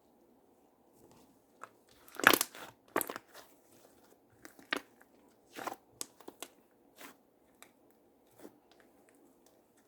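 Slime being pressed and squished by hand, giving a run of irregular crunchy crackles and pops, the loudest about two seconds in.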